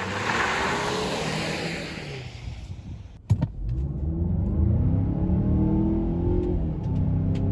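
A Mazda SUV's turbocharged four-cylinder engine accelerating hard: after a fading hiss and a sharp click about three seconds in, the engine note rises steadily, drops briefly for a gear change and climbs again.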